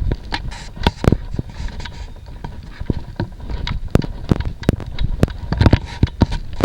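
Irregular crunching footsteps and scuffs on a gritty, debris-strewn floor: sharp clicks and knocks every half-second or so over a low rumble.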